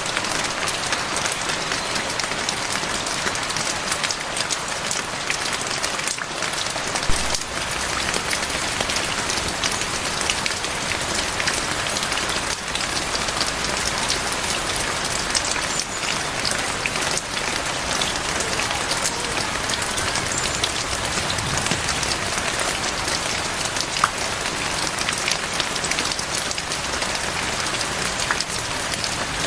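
Heavy rain falling steadily, a dense hiss of close drop hits, with a sharper tick about seven seconds in and another near the end.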